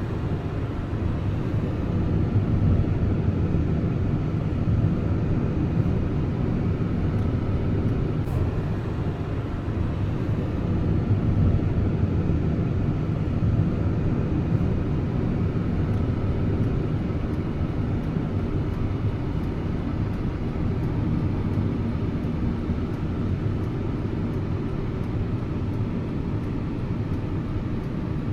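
Steady low rumble of a car driving, with road and engine noise heard from inside the vehicle.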